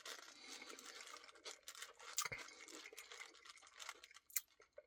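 Faint, irregular small clicks and wet sounds of someone eating a cookie dough Blizzard with a spoon.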